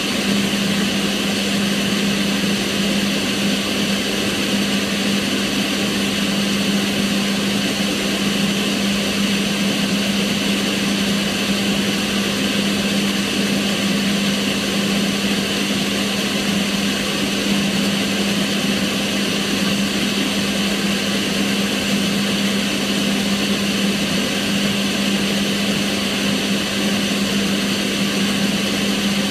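Kitchen range hood extractor fan running steadily: a constant rush of air over a motor hum, with no change.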